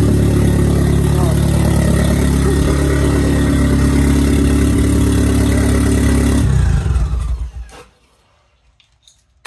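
1987 Nissan 200SX S12's engine running steadily and loudly, then switched off about six and a half seconds in and winding down to a stop within a second. It is running again on freshly fitted spark plugs after the old plugs had fouled from a too-lean tune and kept it from starting.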